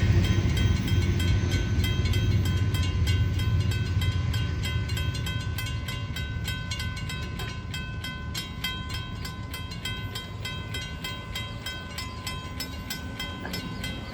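A train rolling past and moving away: a low rumble that slowly fades, with rapid, regular clicking of wheels over rail joints and a faint steady whine.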